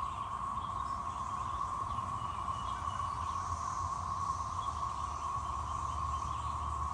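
Steady, droning chorus of 13-year periodical cicadas, the males' mating calls blending into one continuous whirr.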